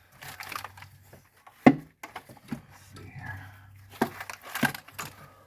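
A few clicks and knocks of hand tools and engine parts being handled during engine disassembly. The sharpest knock comes about a second and a half in, with lighter clicks later, over a faint low steady hum.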